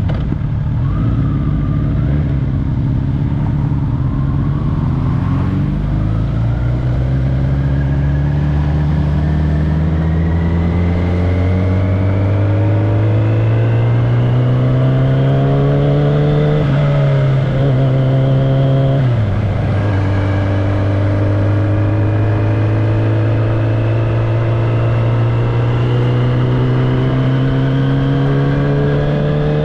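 Kawasaki ZX-10R inline-four engine and exhaust under way, its pitch climbing slowly and steadily under light throttle, with a sudden drop in pitch about nineteen seconds in, as at a gear change or closing throttle, before it climbs again.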